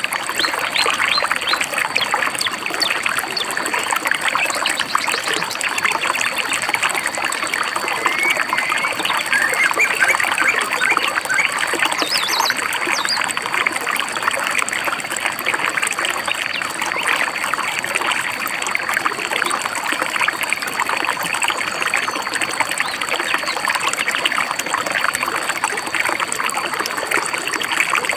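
A stream babbling and trickling steadily over stones, with a few short bird chirps near the middle and a thin steady high tone behind.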